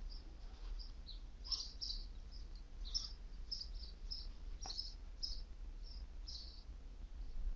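Small birds chirping: short high chirps at irregular intervals, several a second at times, over a steady low rumble. One faint click sounds near the middle.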